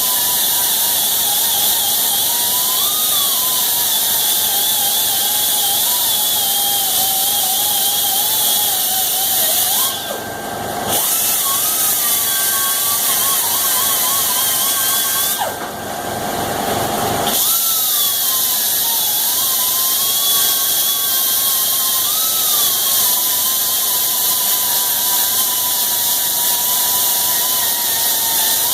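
Air-powered polishing tool running at speed, polishing grind marks off steel. There is a steady hiss and a whine that wavers in pitch as the tool bears on the work. The tool is let off twice, briefly about ten seconds in and for a little longer about fifteen seconds in.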